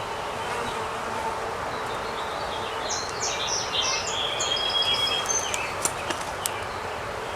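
Honey bees buzzing steadily around an open hive, with a songbird singing a quick string of chirps from about three to nearly six seconds in. A few light clicks follow near the end.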